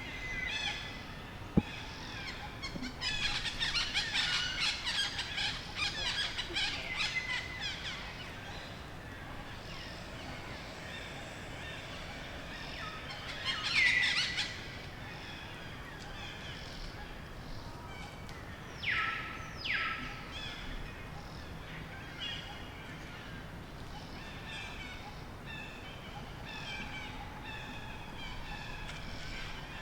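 Forest ambience of birds chirping, densest in the first several seconds, with a few louder short high calls around the middle. A single sharp click comes about a second and a half in.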